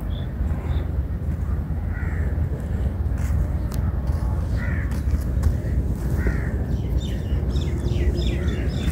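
A bird calling with short cries at irregular intervals, over a steady low rumble.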